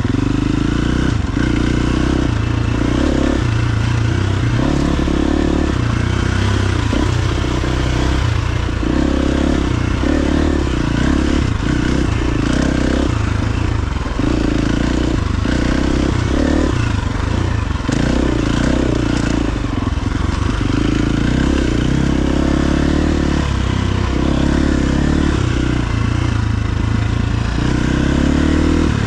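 KTM XC-F 350's single-cylinder four-stroke engine running under riding load. Its note rises and drops every second or so as the throttle opens and closes.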